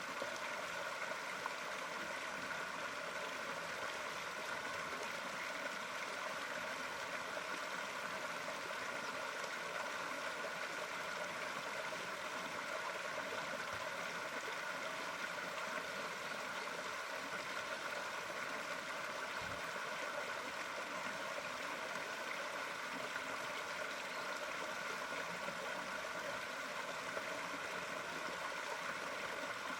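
Running water, a steady, even trickling and splashing like a stream.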